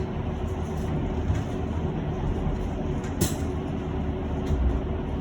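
Cabin noise of a moving electric bus: a steady low road and tyre rumble with a faint even hum, and one short click about three seconds in.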